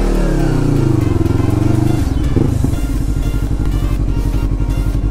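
Yamaha MT-03 parallel-twin engine, its revs easing off over the first two seconds as the bike slows, then settling into a steady, pulsing idle.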